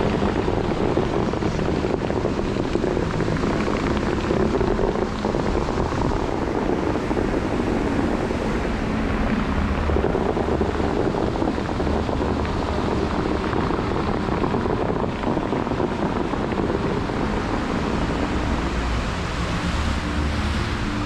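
Bellagio fountain water jets shooting up and crashing back into the lake: a steady rush of spray and splashing, with wind buffeting the microphone.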